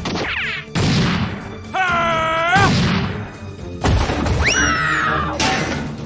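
Background music with cartoon sound effects: four loud crashes and thuds, with high squeaky sounds sliding up and down in pitch between them.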